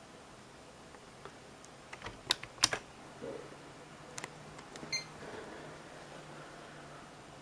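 Computer keyboard keys being pressed: a quick cluster of sharp clicks about two seconds in, then a few single clicks around four to five seconds.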